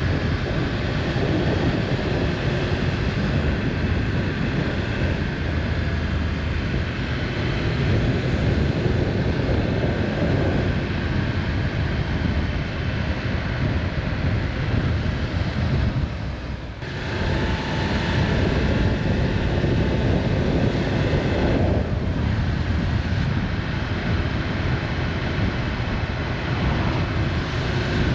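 Motorcycle being ridden at speed: a steady rush of engine and wind noise, with a brief drop in level about two-thirds of the way through.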